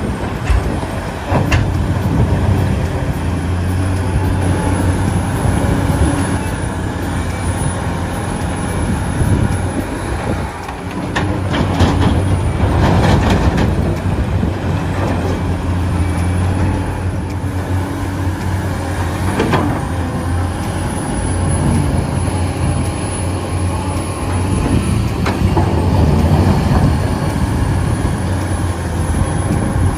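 Heavy machinery engine running steadily with a low hum, with scattered knocks and clatter now and then.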